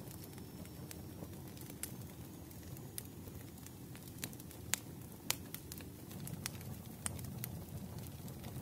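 Wood fire burning in a fireplace: a steady low rumble of flame with irregular sharp crackles and pops, two of them louder about halfway through.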